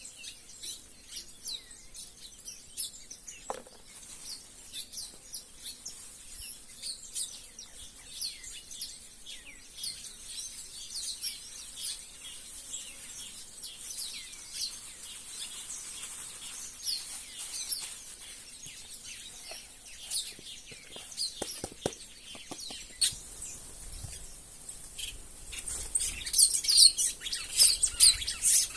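A flock of small wild birds chirping, many short, high, overlapping calls at once, growing denser and louder over the last few seconds.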